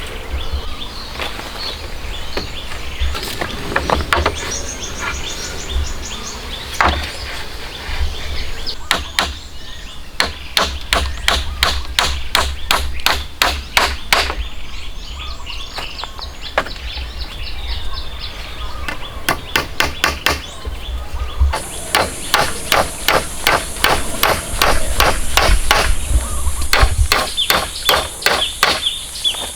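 A hand tool striking repeatedly, hammering or chopping, in fast runs of about four blows a second with pauses between.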